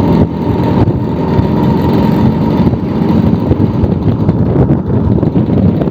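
Old Vespa scooter's single-cylinder two-stroke engine running steadily while riding along the road.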